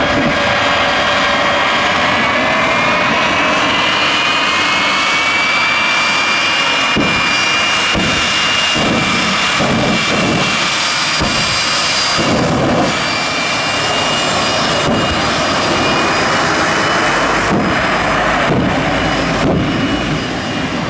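Jet engine running loudly, with a high whine that rises in pitch over the first few seconds and then holds steady, over a dense rushing noise with scattered low thumps.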